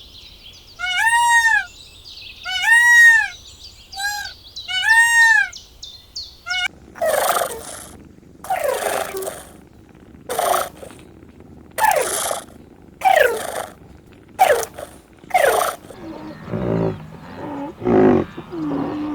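A run of short, arched animal calls, each rising then falling in pitch, repeated five times. Then a tiger roars and snarls in about eight rough blasts, several falling in pitch, followed by a lower call near the end.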